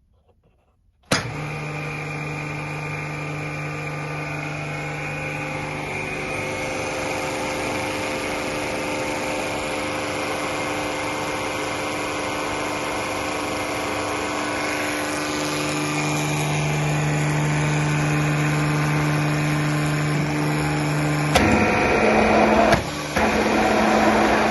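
Speck NP16/15-210 high-pressure plunger pump driven by a 5.5 kW Nicolini electric motor, starting suddenly about a second in and running steadily with a hum and several steady whining tones. Near the end the sound turns louder and rougher and cuts out once briefly.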